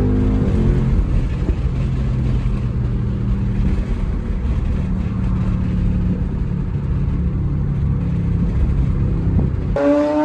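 A car engine running with a loud, steady low drone. Just before the end it gives way suddenly to a higher engine note that rises in pitch, as a car accelerates.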